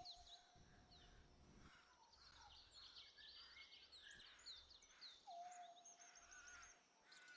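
Faint background birdsong: many short chirps and twitters, with a longer steady whistle at the start and again near the end.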